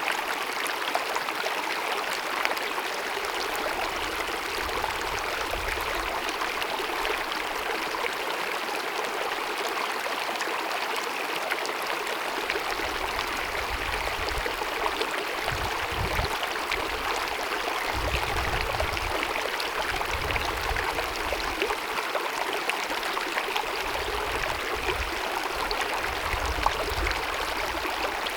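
Small glacier-fed mountain meadow stream cascading and babbling, a steady rush of running water. A low rumble comes and goes in the second half.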